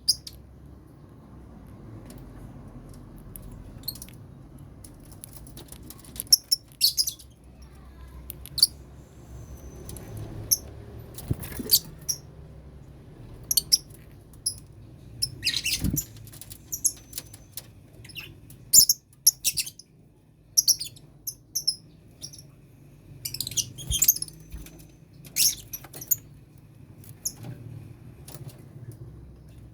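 Lovebirds chirping in a colony cage: short, sharp, high-pitched calls coming irregularly, some in quick clusters, over a steady low hum.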